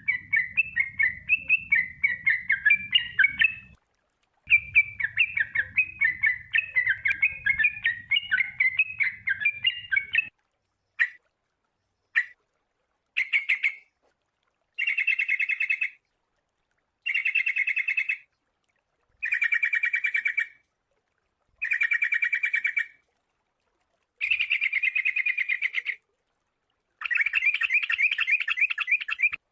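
Sooty-headed bulbul song. A fast, continuous chattering warble runs for about the first third, then gives way to short repeated phrases of about a second each, coming roughly every two seconds.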